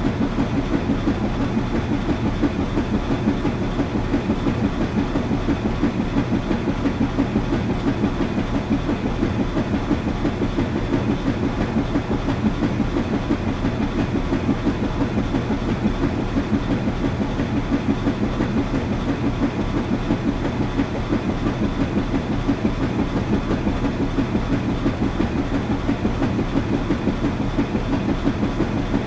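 Washing machine running: a steady, fast, even rhythm over a low hum.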